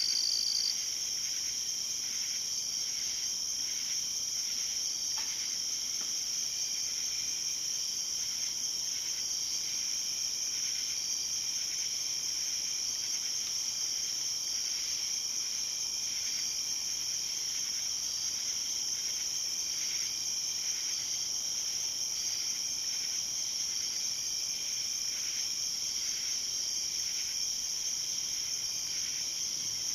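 Night insect chorus of crickets trilling steadily in a dense high band, with a fainter, slower pulsing call beneath. One higher-pitched caller stops about a second in.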